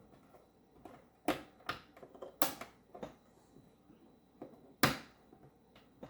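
Scattered sharp clicks and knocks of hard objects being handled, about eight in all, the loudest a little before five seconds in.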